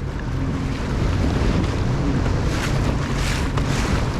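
Jet ski running under throttle across open water, its engine a steady low hum under a rush of water and heavy wind buffeting on the microphone. It grows a little louder over the first second as it speeds up.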